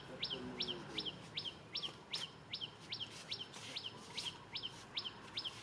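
A bird calling a fast, even series of sharp high notes, each dropping in pitch, about two and a half a second.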